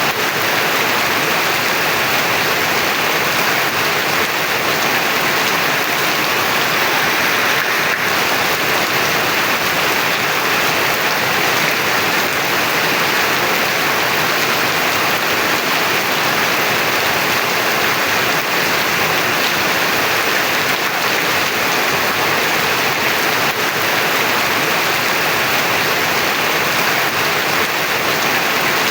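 Heavy rain falling steadily, an even dense hiss of rain on surfaces with no let-up.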